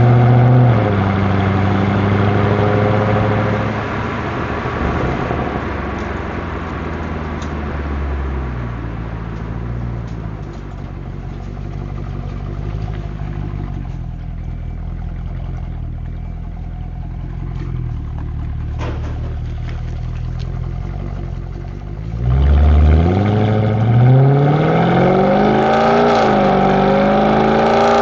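Mercedes-Benz W204 C63 AMG's 6.2-litre V8 running. The engine note drops about a second in and settles into a steady idle. About 22 seconds in it is revved up, its pitch rising and wavering, and it stays above idle to the end.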